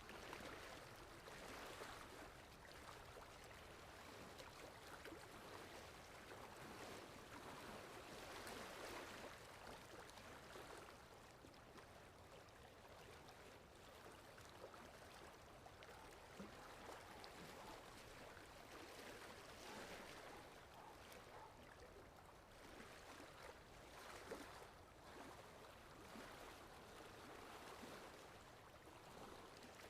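Faint sea waves washing in and drawing back, a soft rushing that swells and eases every few seconds.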